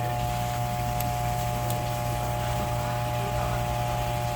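A steady machine hum, low and even, with a few steady higher tones, and two faint ticks about a second and a second and a half in.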